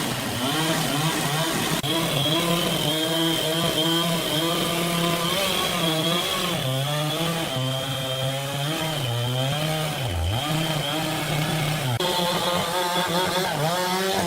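Powered saw running and cutting through wood, its motor pitch sagging and wavering under load, with a deep dip about ten seconds in before it recovers; a steady high whine runs alongside.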